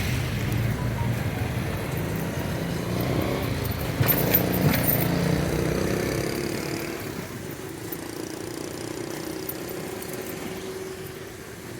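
Motor traffic on a street: a vehicle engine runs close by, then fades away after about six seconds. There is a brief clatter about four seconds in.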